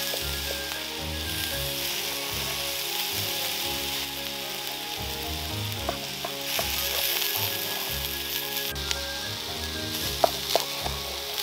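Sweet peppers and mushrooms sizzling steadily on hot stones by a fire, with a few sharp knocks near the end.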